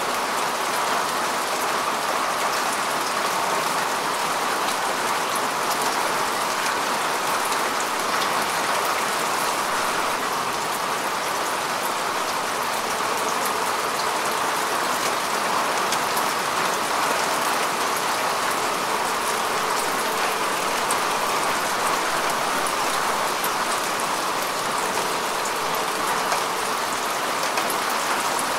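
Steady rain falling on grass and earth, an even hiss made of many small drop ticks.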